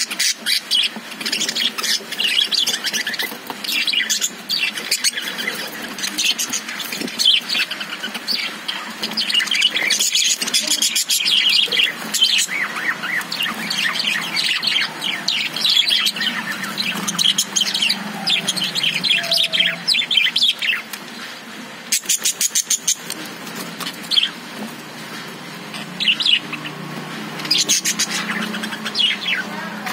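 A group of caged budgerigars chirping and chattering in rapid, overlapping high calls, with a short run of quick clicks about 22 seconds in.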